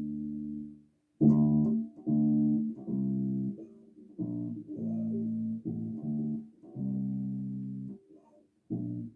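Electric bass guitar played solo: a held note dies away in the first second, then a phrase of separate notes and chords follows, each held from about half a second to a second with short gaps between.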